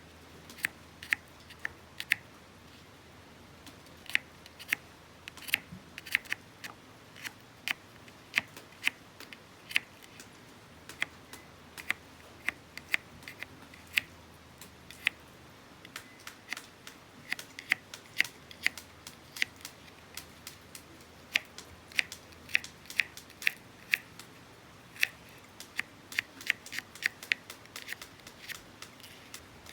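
Wood campfire crackling: irregular sharp pops and snaps, several a second, some in quick clusters, over a faint steady hiss.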